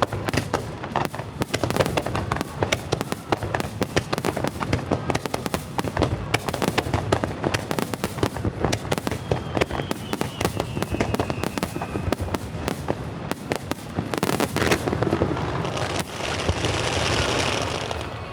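Fireworks display in a rapid barrage: many bangs and crackles a second, overlapping, with a faint falling whistle in the middle. Near the end the bangs give way to a thick, steady hiss for about two seconds.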